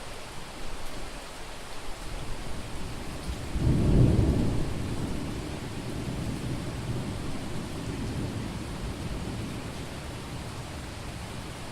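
Steady heavy rain with a thunderclap that swells to a loud deep rumble about four seconds in, then rolls on and slowly fades.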